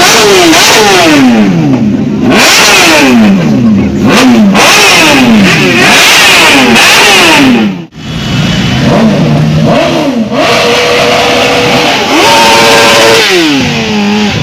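Superbike engines revving hard again and again, their pitch repeatedly climbing and dropping. After a brief break about eight seconds in come steadier engine notes, with one falling pitch near the end.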